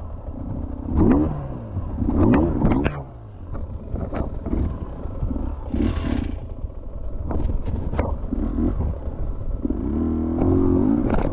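Dirt bike engine revving up and down several times in the first three seconds and again near the end, with knocks and clatter from the bike riding over rough ground, and a brief hiss about six seconds in.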